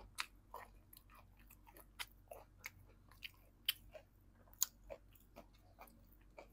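Close-miked chewing of crispy fried chicken: small irregular crunches and wet mouth clicks.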